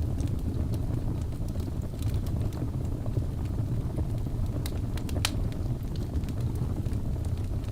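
Birch logs burning in a fireplace, crackling with scattered small pops over a steady low rumble of the fire. A louder, sharper crack comes about five seconds in.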